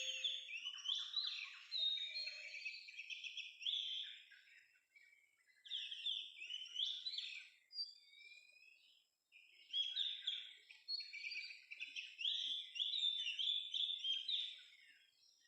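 Oriental magpie-robin song: quick runs of varied whistles and chattering phrases, with a brief lull about halfway through before the song picks up again.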